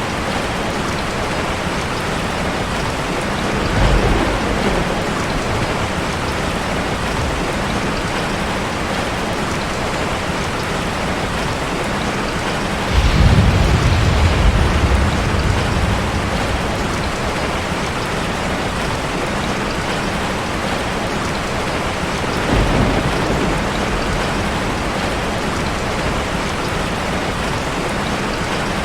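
Heavy rain falling steadily, with thunder rumbling three times. The longest and loudest rumble comes about halfway through.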